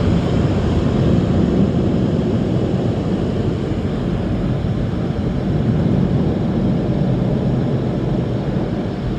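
Car wash tunnel air dryer blowers running, a loud, steady rush of air that eases slightly near the end.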